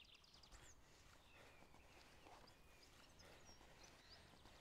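Near silence: faint outdoor ambience with distant birds chirping. A quick bird trill dies away about half a second in, and a few scattered high chirps follow.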